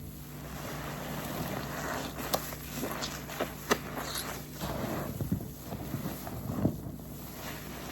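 Waffle car-wash sponge soaked in soapy detergent being squeezed and wrung, wet squelching and running liquid in uneven swells, with a couple of sharp wet clicks.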